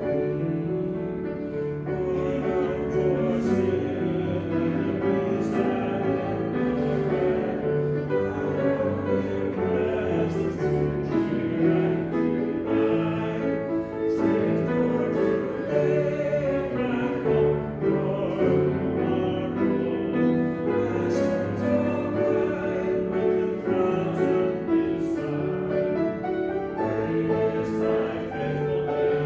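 Church music: a choir singing sustained chords with piano accompaniment and a moving bass line.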